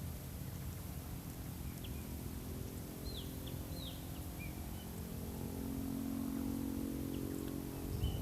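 Birds giving short chirps over a steady low outdoor rumble, with a low drone that grows louder in the second half.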